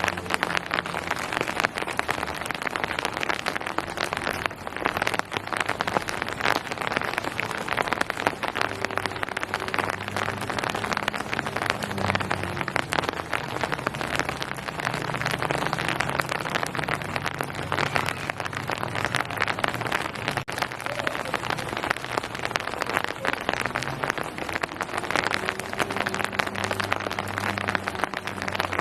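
Steady rain falling on a hard surface: an even hiss made of many close, fine drop impacts, with a faint low steady hum underneath.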